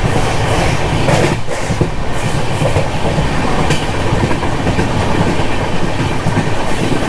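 Passenger train coach running on the rails: a loud, steady rumble with wheels clacking over rail joints now and then.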